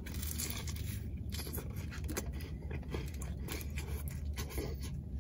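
Crunchy biting and chewing of a crispy deep-fried spring roll, with many small crackles of the fried wrapper, over a steady low hum.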